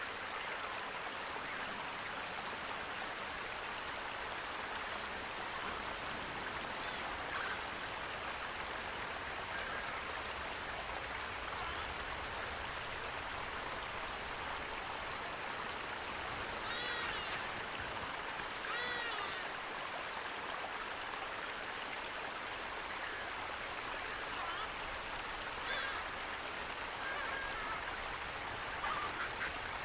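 Flowing water running steadily. A few short pitched animal calls come through it about halfway through and again near the end.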